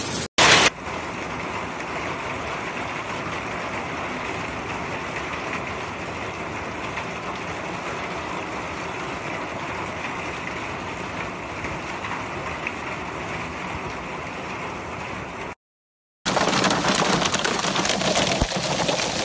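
Heavy rain pouring down as a steady, even hiss. It breaks off for a moment about three-quarters of the way through, then comes back louder.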